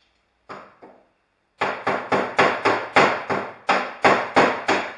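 Two light knocks, then about a second and a half in a fast run of metal-on-metal hammer blows, about five a second, each ringing briefly: something stuck on the bus's floor being beaten loose.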